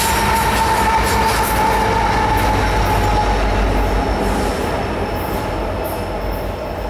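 Rear diesel locomotives and last cars of a BNSF coal train rolling past, with a low rumble and clicking wheels on the rail. A steady high-pitched tone runs for the first three seconds, and the sound fades as the end of the train moves away.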